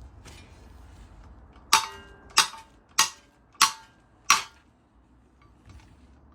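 Five sharp metallic strikes, evenly spaced about two-thirds of a second apart, each ringing briefly.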